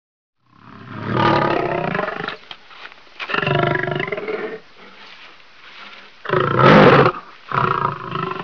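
Big cat roaring: several long roars with pauses between them, the first the longest.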